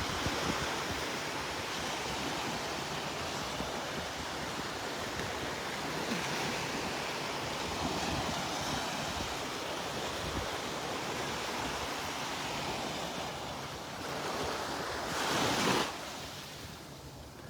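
Small Gulf of Mexico surf washing steadily onto the beach, with wind on the microphone; a louder rush of noise comes near the end.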